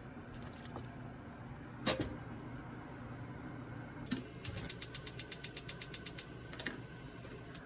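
A fast, even run of mechanical ratchet-like clicks, about ten a second for under two seconds, after two single sharp clicks, over a steady low hum.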